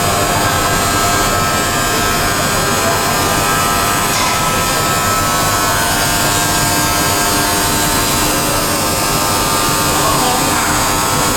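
Industrial plastic pelletizing line machinery running steadily: a loud, even motor whine made of many steady tones over a dense low rumble, with no change in pace.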